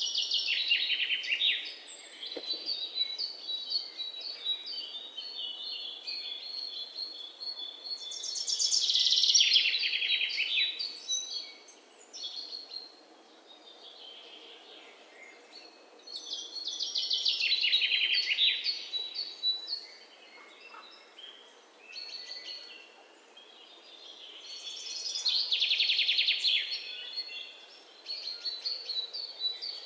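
Songbirds chirping, with one bird's loud, rapid trilling song coming four times, about every eight to nine seconds, over softer high chirps from other birds.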